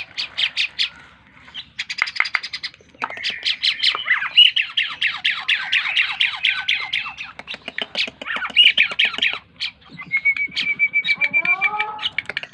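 A jalak keling (cucak keling) starling singing continuously: long rapid strings of sharp, chattering notes, about seven a second, broken by brief pauses. Near the end it gives a short held whistle.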